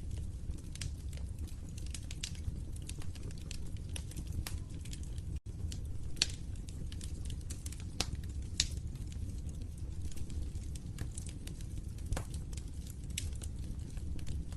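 Wood fire crackling in a fireplace: a constant run of small sharp crackles over a low steady rumble, with a few louder pops. The sound drops out for an instant about five seconds in.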